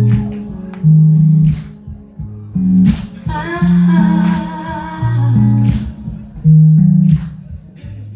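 Live band playing a song intro: a prominent bass line and guitar with regular drum hits, and a held, wavering note from about three to five seconds in.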